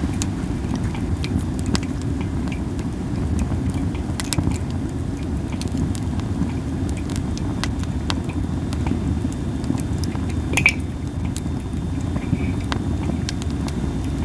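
Masaki (Japanese spindle tree) wood burning in a campfire, crackling with frequent small pops and one louder pop about two-thirds of the way through, over a steady low rumble.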